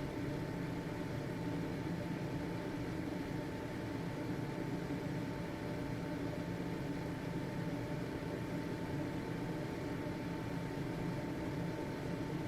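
Household ventilation fan running steadily: an even motor hum and airflow rush with a thin constant whine.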